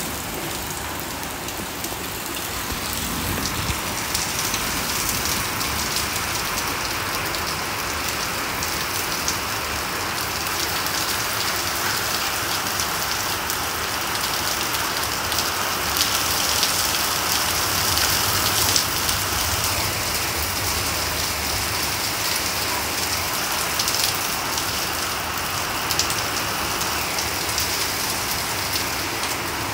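Heavy rain pouring onto a wet concrete driveway and garden shrubs: a dense, steady hiss of drops splashing on standing water and pavement, with a few sharper taps now and then.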